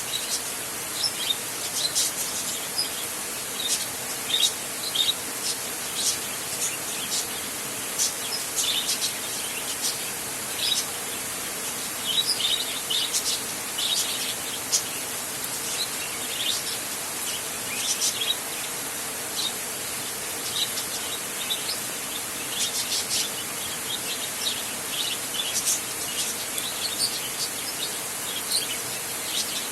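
Many birds chirping in quick short calls, scattered throughout, over a steady background hiss.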